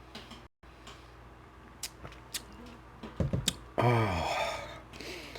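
Quiet close-up chewing of smoked beef rib meat, with a few faint wet mouth clicks. Near the end comes a drawn-out, breathy "oh" of pleasure with a falling pitch.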